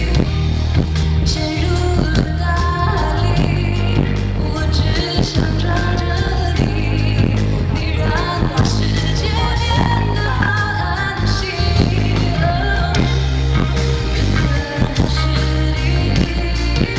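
Live pop song played loud through a concert sound system: a female vocalist singing the melody over a band with a heavy, steady bass line.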